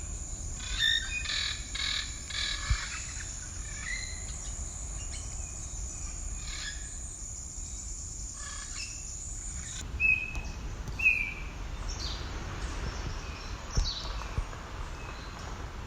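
Several wild birds chirping and calling in short notes, over a steady high-pitched buzz, typical of insects, that cuts off suddenly about two-thirds of the way through. Low wind rumble on the microphone throughout.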